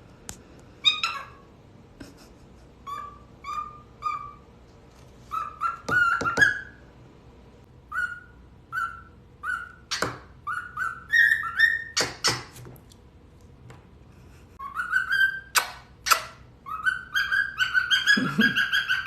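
Pet cockatiel whistling a song: a string of short clear whistled notes, some sliding upward, broken by a few sharp clicks. Near the end it breaks into a fast run of repeated notes, about four a second.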